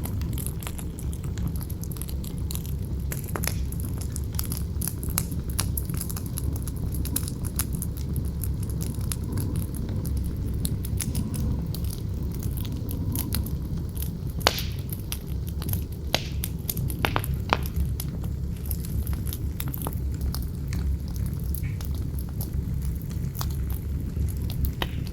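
Campfire crackling with frequent small clicks and a few louder pops about halfway through, over a steady low rumble of wind.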